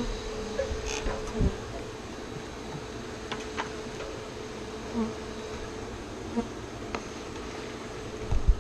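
A large colony of honeybees buzzing as a steady hum around the opened hive, with scattered short clicks and knocks from work at the comb.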